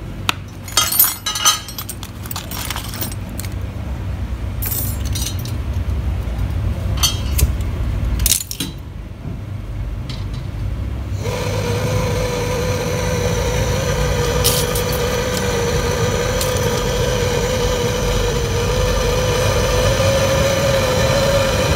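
Metal tools and fittings clinking and tapping during refrigerator pipe work, over a low rumble. About eleven seconds in, a steady machine hum with a whine starts and keeps running.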